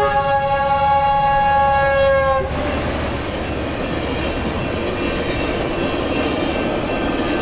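F125 diesel locomotive's multi-note air horn sounding one long blast of about two and a half seconds, then cutting off, followed by the steady rumble and rail noise of the train rolling past.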